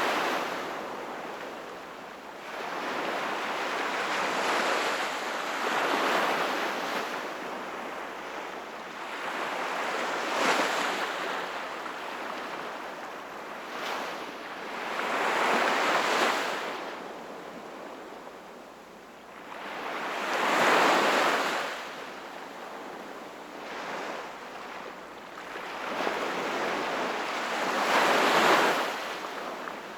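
Sea waves breaking and washing up the shore, the hiss swelling and falling back in a surge about every five seconds.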